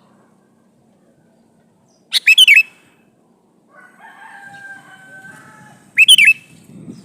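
Male sooty-headed bulbul (kutilang) calling to a female: two loud, short phrases of quick warbling notes, about four seconds apart. A fainter, drawn-out call sounds between them.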